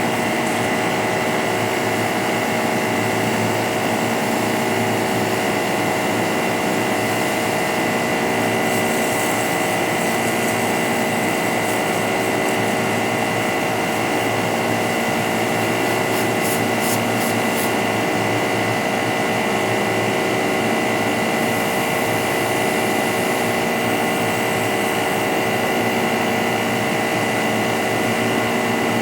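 Makute pressure washer running steadily, its motor and pump giving a constant whine.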